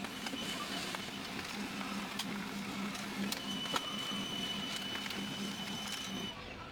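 HP LaserJet P2015d laser printer running a print job, after its restoration: a steady motor hum with scattered clicks, and a high whine joining in about halfway through. It all stops shortly before the end.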